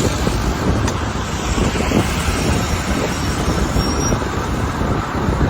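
Wind buffeting a bike-mounted camera's microphone while riding, over the steady noise of city traffic.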